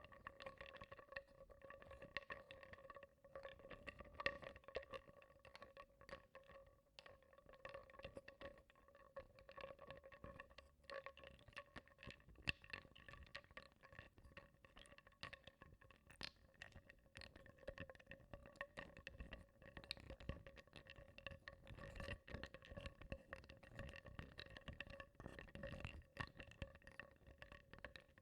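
Small wooden blocks stirred in water in a bowl, softly clicking and knocking against each other and the bowl in an irregular stream, with a faint watery slosh. A faint steady hum runs underneath.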